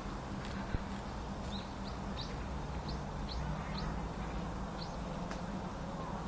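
A small songbird giving a string of short, high chirps, about eight spread over a few seconds, over a steady low background rumble. There is one sharp tick about a second in.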